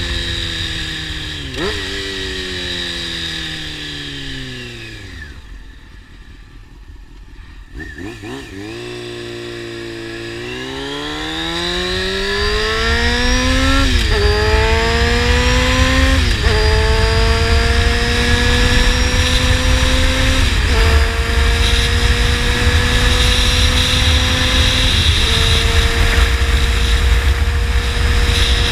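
Honda CBR600 sportbike's inline-four engine through a slip-on exhaust: it slows with a couple of downshift blips and drops to low revs, then accelerates hard through the gears with four quick upshifts before settling into a steady cruise. Wind buffets the microphone once the speed builds.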